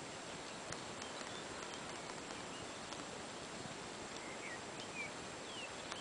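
Small birds chirping briefly a few times over a steady hiss, mostly in the second half, with a few faint ticks.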